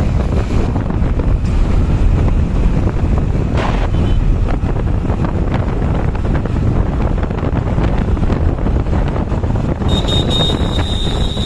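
Wind buffeting the microphone, a loud, steady low rumble. Near the end a thin high-pitched tone joins in.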